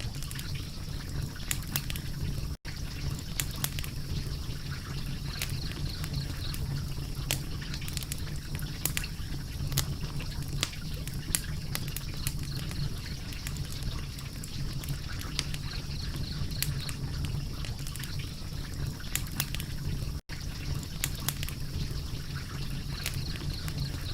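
Wood fire crackling, with frequent sharp snaps and pops over a steady low hum; the sound cuts out for an instant twice.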